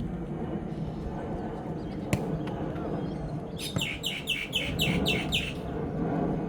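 A bird calling a quick run of about seven high chirps in a row, a little over halfway through, over low outdoor background noise. A single sharp knock comes about two seconds in.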